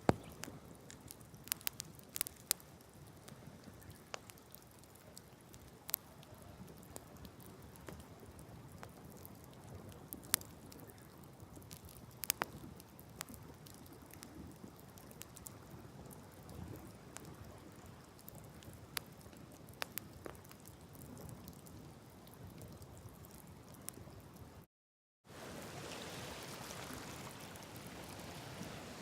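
Wood campfire crackling, with irregular sharp pops scattered over a low hiss. After a brief cut to silence near the end, a louder steady hiss takes over.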